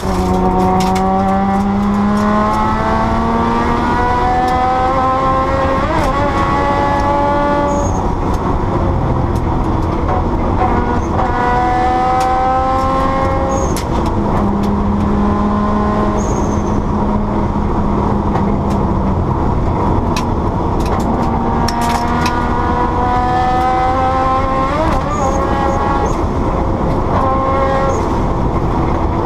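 Rally car engine heard from inside the cabin, accelerating hard through the gears. Its pitch climbs and drops back at each upshift, with a stretch of steady throttle midway.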